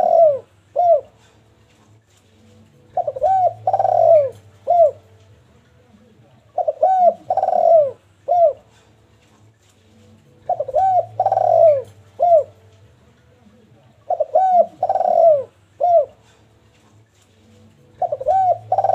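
Zebra dove (derkuku) cooing its song: a phrase of quick rolling coos with one longer note in the middle, repeated about every four seconds, five times over.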